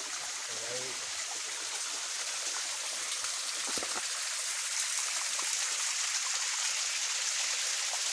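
Water of a small village waterfall and stream running steadily, a constant hiss-like rush. One faint knock a little under four seconds in.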